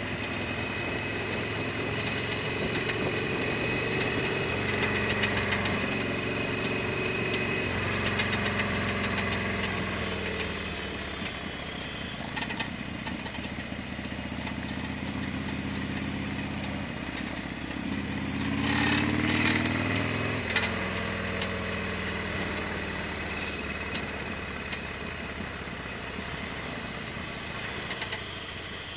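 Harley-Davidson Sportster XL1200R's air-cooled V-twin running on the move, its engine speed stepping up and down with the gears, climbing to its highest about two-thirds of the way in and then dropping suddenly.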